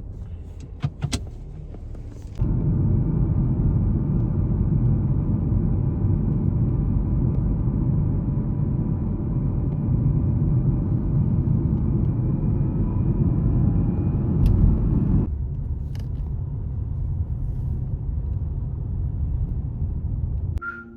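Motor vehicle running on the road, a steady low rumble with faint engine tones that jumps up sharply about two and a half seconds in and eases down around fifteen seconds; a few clicks come before it.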